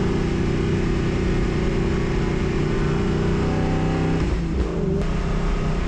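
Race car engine running steadily under load, with a steady hiss underneath. About four seconds in, the engine note breaks briefly and wavers, then settles steady again.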